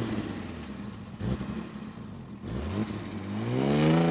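Engine revving in short blips, each rising in pitch, about a second and a half apart, then a longer rev that climbs and holds near the end.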